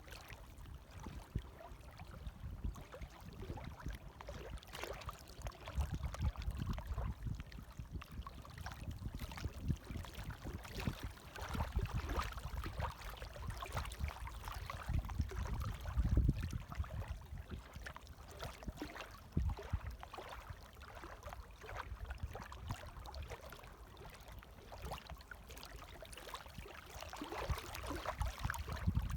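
Light waves lapping and washing in: a fizzing water noise that swells and eases every few seconds.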